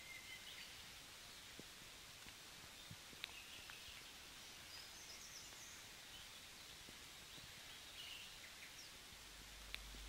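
Faint, scattered pre-dawn bird chirps over a steady background hiss, with a few soft clicks.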